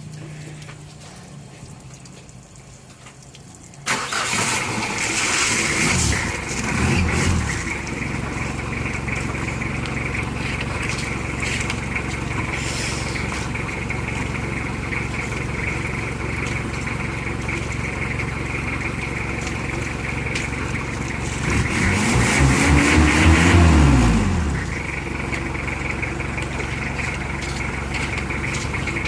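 Mitsubishi Adventure engine starting about four seconds in, revved briefly, then idling steadily; later it is revved again, the pitch rising and falling over about three seconds before settling back to idle.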